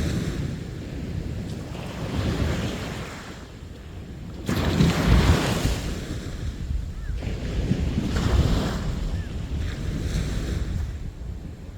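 Sea waves breaking and washing up on the shore, one surge after another, with a sharp crash about four and a half seconds in. Wind rumbles on the microphone underneath.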